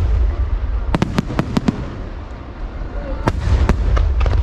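Aerial fireworks shells bursting: a quick cluster of sharp bangs about a second in, a short lull, then two more bangs near the end, over a steady low rumble.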